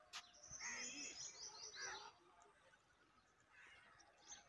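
Faint birdsong: a quick run of about eight short, high chirps with lower gliding notes in the first two seconds, then only faint rural background.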